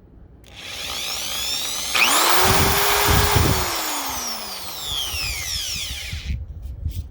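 Chicago Electric 1/2 inch corded hammer drill worked on its variable-speed trigger: the motor winds up, jumps to full speed and its loudest about two seconds in, then winds down and stops near the end.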